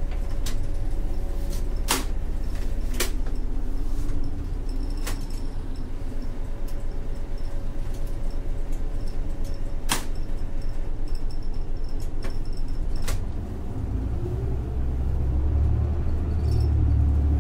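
Isuzu Erga city bus's 6HK1-TCC diesel engine, through an Allison five-speed torque-converter automatic, heard from inside the cabin as the bus pulls away and accelerates, with a few sharp clicks from the interior. About fourteen seconds in the sound dips briefly, then builds louder with a deeper rumble and rising pitch.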